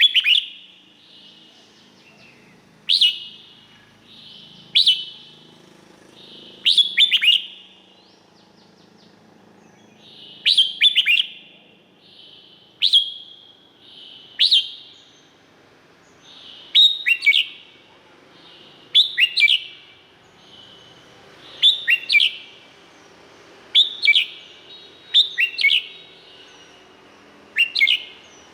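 Red-whiskered bulbul singing short, loud whistled phrases, one about every two seconds, some given in quick pairs.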